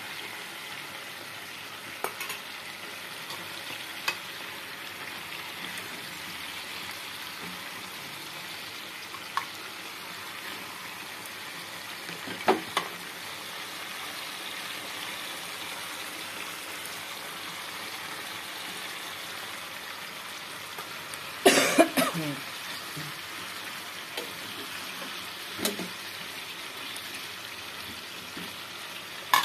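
Lamb ribs frying in black pepper sauce in a frying pan, with a steady hiss. A metal slotted spoon knocks against the pan now and then as the ribs are turned, loudest in a short clatter about two-thirds of the way through.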